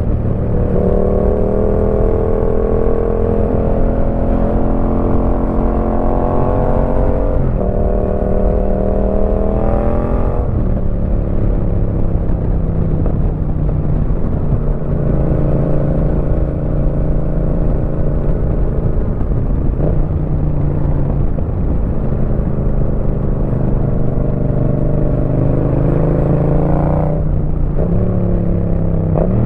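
Yamaha MT-07's parallel-twin engine breathing through an aftermarket Roadsitalia exhaust under way. The engine pulls up through the revs and upshifts, its pitch dropping sharply at each change, about seven and ten seconds in and again near the end, with a long steadier stretch between.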